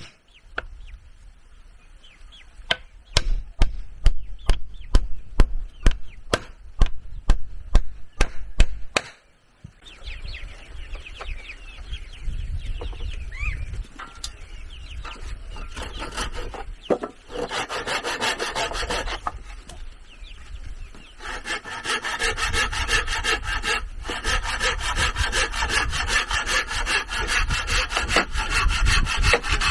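A run of sharp knocks on wood for the first several seconds, then a hand saw cutting through wood with steady back-and-forth strokes that grow louder in the second half.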